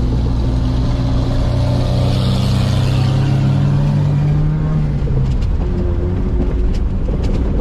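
Vehicle engine pulling under load while driving, its pitch rising steadily for about five seconds, then dropping as it eases off. A few sharp rattles or knocks come near the end.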